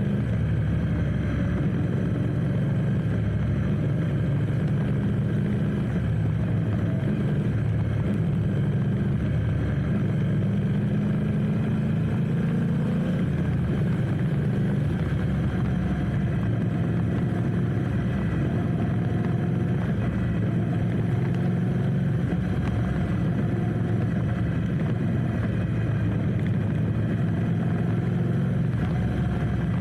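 Motorcycle engine running at low, steady revs, its pitch drifting gently up and down.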